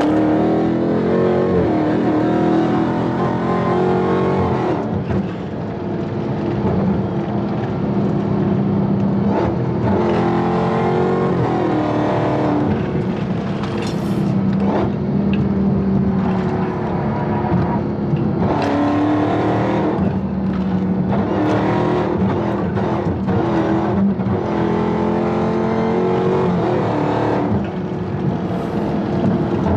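Dodge Hellcat's supercharged 6.2-litre Hemi V8 accelerating hard through the gears, its pitch climbing and dropping back again and again with each shift.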